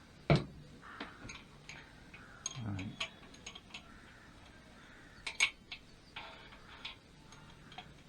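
Scattered sharp metal clicks and light taps of BSA A50 pushrods being handled and fed down into the engine onto the cam followers. The loudest click comes about a third of a second in and another near the middle, with a dull low knock around three seconds in.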